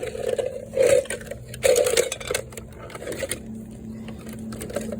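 Plastic and metal parts of a Keurig coffee maker being pried and broken apart by hand: irregular crunching, cracking and rattling, with two louder bursts about one and two seconds in.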